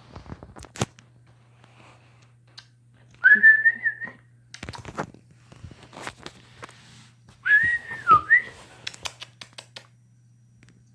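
A person whistles twice, each a short wavering whistle lasting about a second, with light knocks and handling clicks in between.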